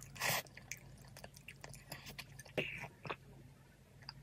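A short slurp of glass noodles coated in spicy braised-chicken sauce, then close-miked wet chewing with scattered mouth clicks and smacks.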